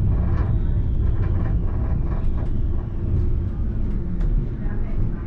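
Alstom Citadis tram running on its track, heard from the driver's cab: a steady low rumble with repeated short clicks and knocks from the running gear.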